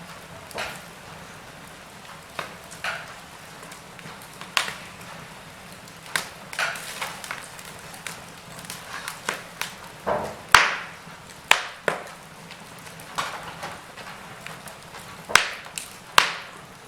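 Wood fire in a fireplace crackling: irregular sharp pops and snaps, some in quick clusters, over a low steady hiss, with the loudest pops about halfway through and near the end.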